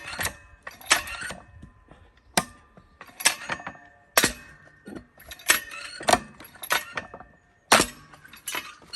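Firewood being split with a splitting tool: about a dozen sharp metallic strikes at irregular intervals, each ringing briefly.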